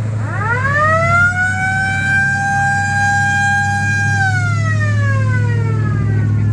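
A mechanical siren winds up to a steady wail, holds it for about three seconds, then winds down, over a steady low hum.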